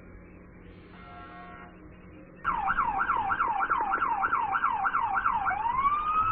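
Police car siren. It switches on about two and a half seconds in with a fast yelp, the pitch sweeping up and down about three times a second. Near the end it rises into a slower wail.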